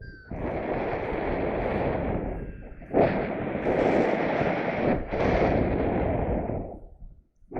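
Strong wind buffeting the microphone in flight, a loud, gusty rushing that surges and dips several times and dies away near the end.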